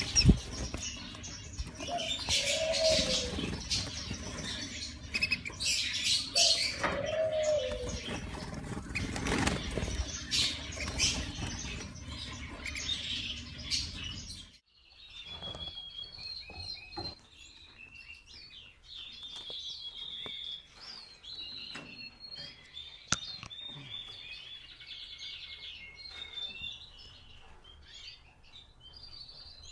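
Mosaic canaries: loud wing flapping and scuffling for about the first half, then after an abrupt change about halfway, quieter high chirping and twittering.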